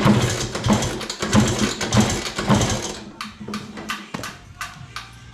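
LML scooter's two-stroke engine being kicked over, chuffing in heavy pulses about twice a second without catching, after the owner thought he might have flooded it. The pulses die away after about three seconds, leaving a run of sharp clicks.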